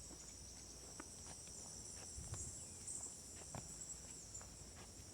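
Steady high-pitched trilling of insects in the woods, with soft, scattered footsteps on a damp dirt trail.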